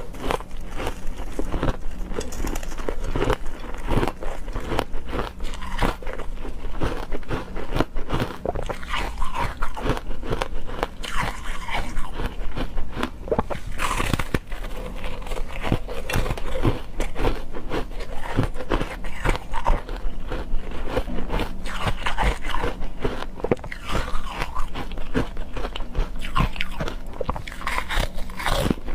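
Ice being bitten and chewed close to the microphone: continuous, rapid crunching and crackling, with a few sharper bites.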